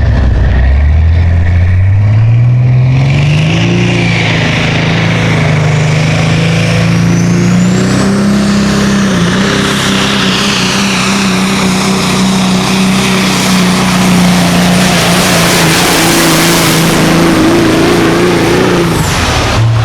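Pulling super semi truck's diesel engine at full power down the track, its revs climbing over the first few seconds, then held high with a high whistle on top, until it shuts off near the end.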